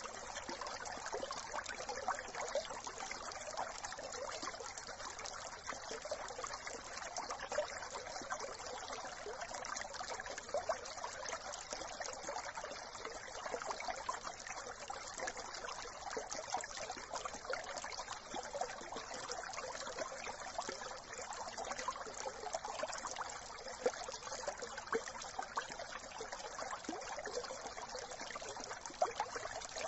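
Brook water trickling and babbling, a steady, unbroken flow.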